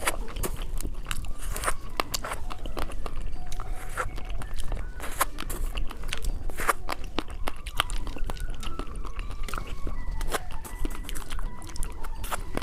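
Candy being bitten and chewed, with many irregular crunches.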